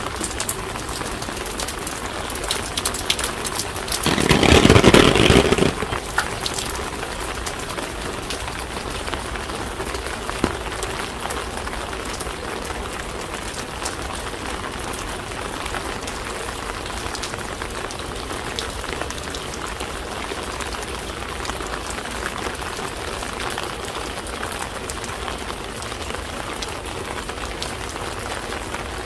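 Steady rain falling, with many small drops pattering close by. About four seconds in, a louder rushing noise lasts under two seconds.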